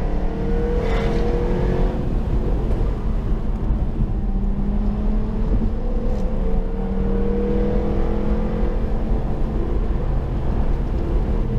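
Jaguar F-Type R's 5.0-litre supercharged V8 running at a light cruise, heard from inside the cabin over tyre and road noise. Its note rises gently and eases off a couple of times with the throttle.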